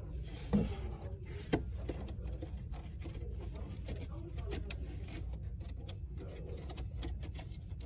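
Shop ambience: a steady low hum with scattered light clicks and knocks, two sharper knocks in the first two seconds.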